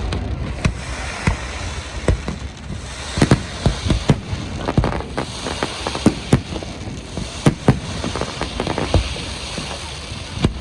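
Fireworks display: aerial shells bursting in quick, irregular succession, many sharp bangs over a continuous low rumble.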